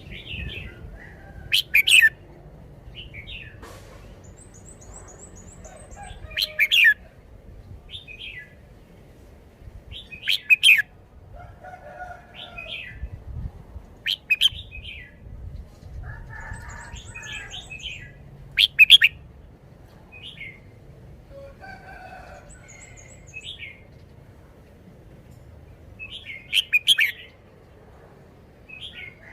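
Red-whiskered bulbul singing short, loud, chirpy phrases every few seconds, with fainter lower warbles and quick high trills in between.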